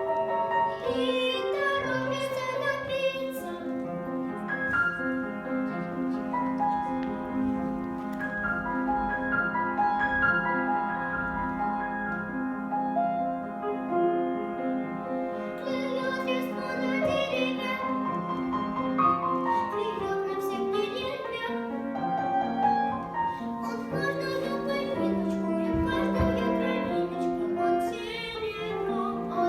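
A young girl singing a song with piano accompaniment. Her voice is heard near the start and again through the second half, with an instrumental passage of held notes in between.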